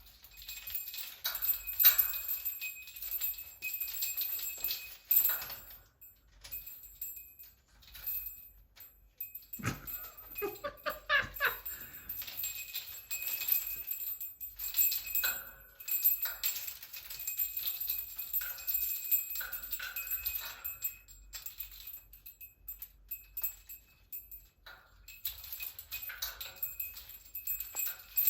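Pet bird playing with toys hung with small bells: irregular jingling and rattling throughout, with a short pitched, wavering call about ten seconds in.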